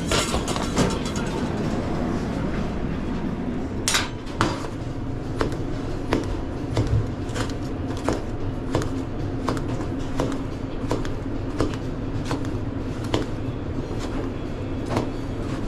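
Kitchen work sounds: short knocks and clatter of utensils, roughly one or two a second, over a steady background hum.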